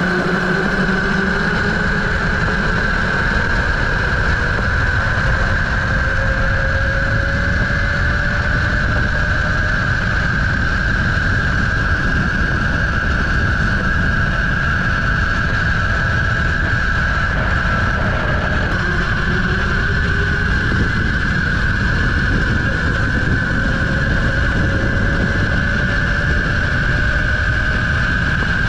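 Tuttio Soleil01 electric dirt bike's motor whining under way, its pitch climbing slowly as the bike gathers speed, over a steady high whine and heavy wind rumble on the microphone.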